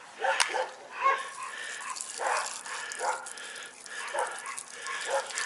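A dog barking repeatedly, short barks coming about a second apart.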